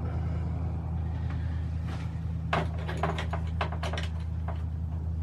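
A steady low hum, with a cluster of small clicks and knocks from about halfway through.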